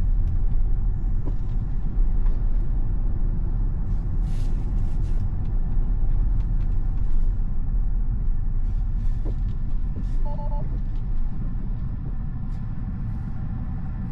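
Steady low rumble of road and wind noise inside a Tesla's cabin while it drives, with no engine note. A brief electronic beep sounds about ten seconds in, and the rumble eases off slightly near the end.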